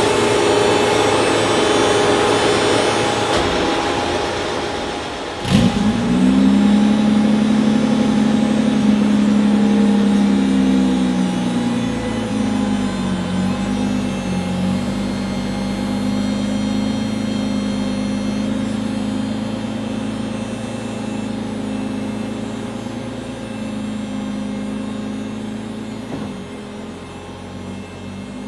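Turbocharged BMW M3 drag-car engine making a dyno pull. About five seconds in, with a sharp pop, the revs shoot up, then they hold at a high, steady pitch with a few brief dips, the sound gradually easing over the last part.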